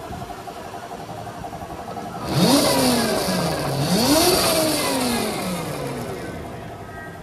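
Gogoro 2 electric scooter's motor and chain drive spun up twice on the throttle. Each time a whine rises quickly and then winds down slowly, with a hiss over it while the drive turns.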